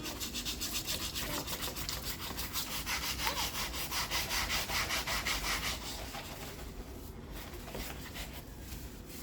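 Rhythmic back-and-forth scrubbing while a motorcycle is washed, about five strokes a second, dying away about six seconds in.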